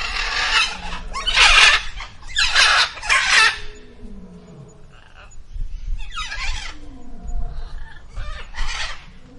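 A bird's harsh, hoarse calls: four in quick succession in the first few seconds, then two more after a pause.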